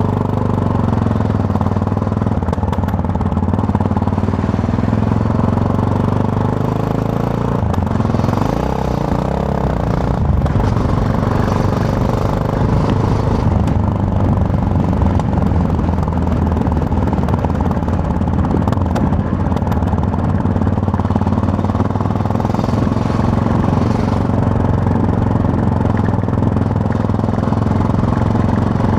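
Yamaha MT-03 motorcycle engine running under way, heard from the rider's position, with a steady engine note that bends and shifts in pitch about eight to ten seconds in.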